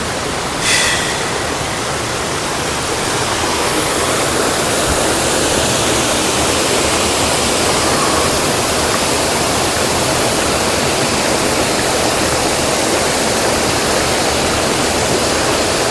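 Jungle waterfall rushing in a steady, dense roar of falling water. A brief, sharp high sound cuts in under a second in.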